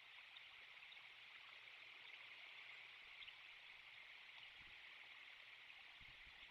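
Near silence: a faint, steady outdoor hiss from the nest cam's microphone, with a few faint low thumps near the end.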